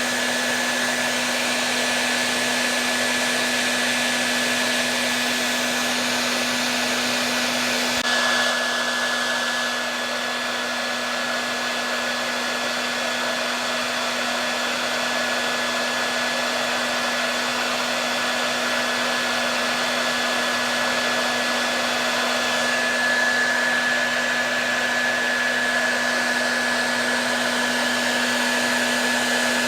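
Hair dryer running continuously: a steady rush of blown air with a low motor hum and a thin high whine, with a slight shift in tone about eight seconds in.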